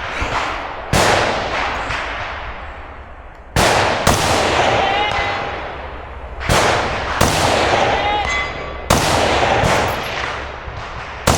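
Gunshots on a shooting stage, about eight of them, mostly in pairs about half a second apart, each trailing a long echo. After several shots a steel target rings briefly with a short tone, a sign of a hit.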